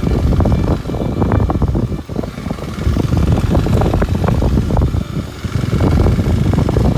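Kawasaki Super Sherpa's 250 cc single-cylinder engine running while riding, with heavy wind buffeting and rumble on the microphone; the sound eases briefly twice.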